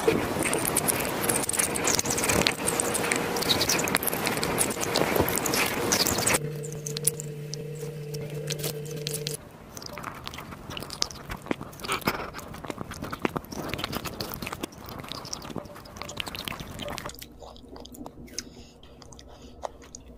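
Close-miked chewing of raw aloe vera leaf: crisp crunches as the green rind is bitten, and wet, slippery chewing of the gel. A steady hum runs underneath for a few seconds about a third of the way in, and the chewing is quieter and sparser near the end.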